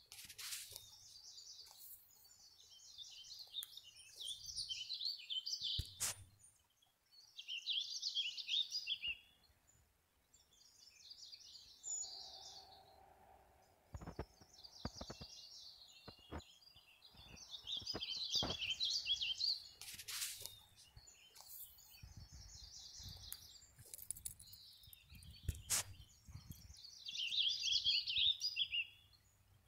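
A small songbird repeating a short phrase of rapid, high chirps every two to three seconds, with a few sharp knocks in between.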